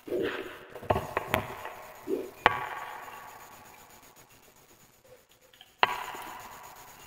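Wood fire in a fireplace crackling, with a few sharp pops from the burning logs: a cluster in the first second and a half, the loudest about two and a half seconds in, and another near six seconds, each dying away slowly.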